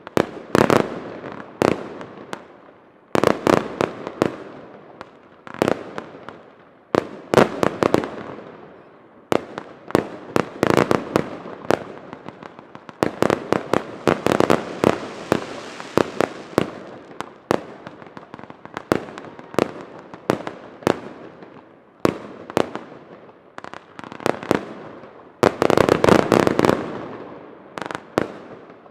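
Professional fireworks display: a continuous run of sharp bursts and bangs, each trailing off into echo, thickening into dense clusters about halfway through and again near the end.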